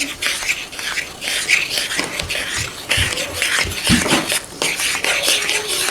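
A spoon stirring pancake batter in a mixing bowl, made of pancake mix and water: a run of repeated scraping strokes against the bowl.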